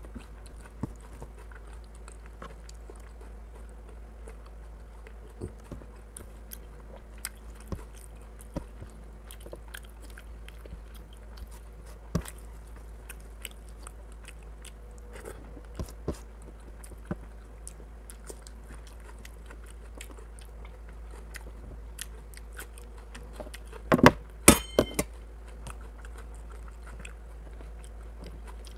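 Close-miked eating: chewing with the mouth, and fingers working rice and chicken curry on a stainless-steel plate, with many small scattered clicks and crunches. A short cluster of louder sharp clicks comes near the end.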